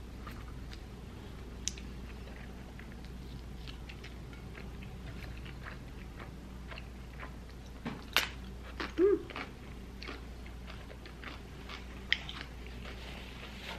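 Close-up chewing and biting as a person eats buffalo chicken wings: soft wet mouth clicks and smacks, with a few louder sharp clicks about two-thirds of the way through and another near the end.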